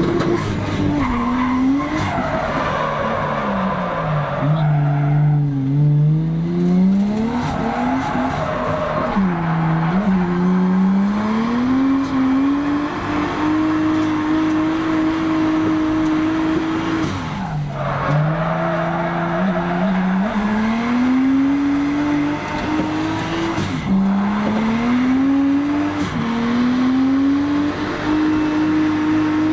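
Drift car's engine heard from inside the cabin, held at high revs and repeatedly dropping then climbing back up as the throttle is lifted and reapplied through a run of drifts, over steady tyre skidding.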